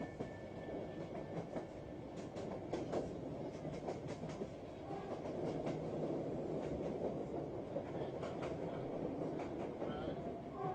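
A train running on the rails: a steady rumble with scattered sharp clicks and knocks from the wheels over the track.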